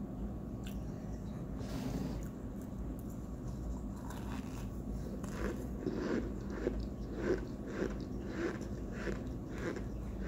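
A person eating chunks of homemade cornstarch, crunching and chewing with the mouth close to the microphone. Steady chewing at about two chews a second begins a few seconds in.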